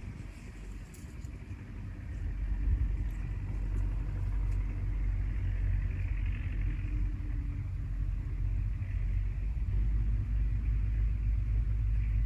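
Outdoor lakeside ambience dominated by a low rumble that swells about two seconds in and then holds steady, with a faint hiss higher up.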